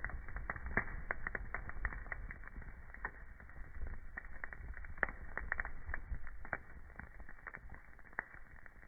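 Burning wood fire crackling: frequent irregular pops and snaps over a low rumble, easing slightly toward the end.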